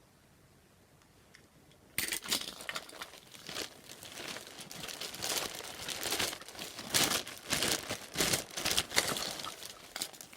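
Near silence for about two seconds, then a bag crinkling and rustling in irregular bursts as hands rummage through it.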